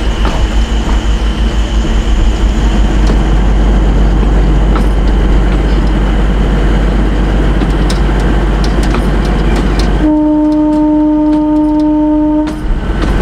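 Narrow-gauge diesel train running as it pulls away, a steady loud engine and rail rumble. About ten seconds in, the horn sounds one steady note for about two and a half seconds.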